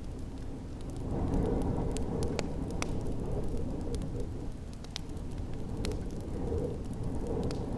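Wood fire crackling in a fireplace: scattered sharp pops over a steady low rumble of storm wind.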